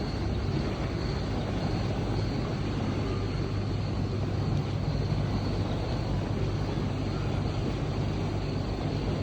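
A tour boat's motor running steadily, a constant low hum over an even rushing noise.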